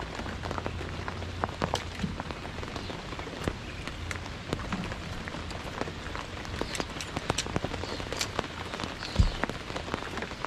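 Rain falling steadily, with many sharp drop hits close by, and one low thump about nine seconds in.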